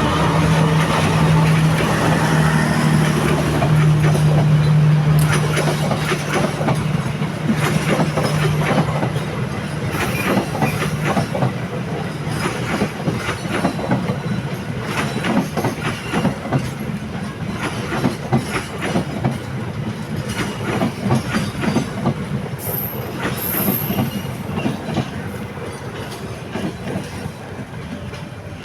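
A long train passing by. A low steady engine hum, which fits the diesel locomotive, carries through roughly the first ten seconds. After that comes a fast, continuous clickety-clack of the wagons' wheels over the rail joints, growing gradually fainter toward the end, with a brief high wheel squeal near the end.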